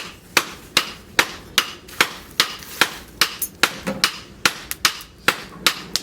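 Hammer blows on steel over an anvil while forging rebar, struck in a steady, even rhythm of about two and a half blows a second, each with a short metallic ring.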